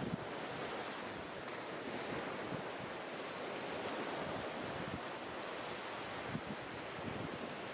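Sea waves breaking on the beach in a steady wash, with wind buffeting the microphone in short low thumps.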